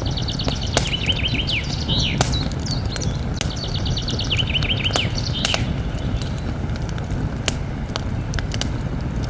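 Campfire crackling with frequent sharp pops over a steady low rumble, while a songbird sings two phrases of fast repeated notes, one at the start and one about three and a half seconds in.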